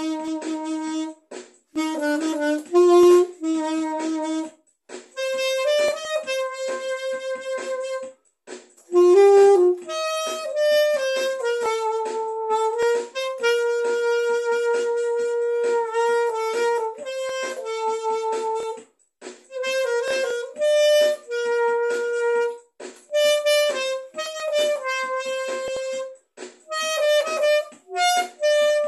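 A single wind instrument plays a slow melody with no accompaniment, holding one note after another in phrases broken by short pauses.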